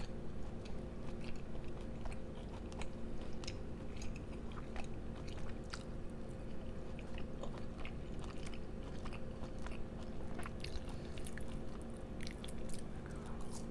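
A person chewing and biting food close to the microphone, with many small irregular mouth clicks. A steady electrical hum runs underneath.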